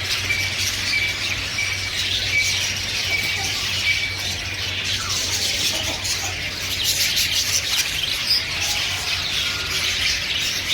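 Many caged birds chirping and calling together in a dense, continuous chatter, with a short high note repeated about twice a second over the first few seconds. A steady low hum runs underneath.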